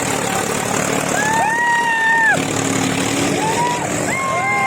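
Tractor engine running steadily under load, with several drawn-out voices calling out over it, each call rising and falling over about a second.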